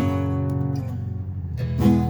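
Acoustic guitar strumming in an instrumental break: a chord struck right at the start rings out and fades, and another strum comes in near the end.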